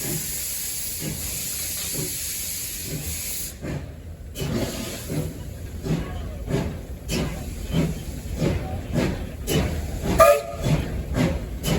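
Steam locomotive heard from the cab: a steady hiss of escaping steam cuts off suddenly after about three and a half seconds. The engine's exhaust beats then begin, a rhythmic chuffing of about two beats a second as it works.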